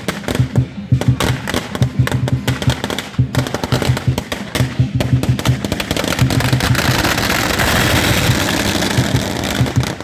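Strings of firecrackers going off in rapid crackling volleys that thicken into a continuous crackle about six seconds in, with drumming underneath.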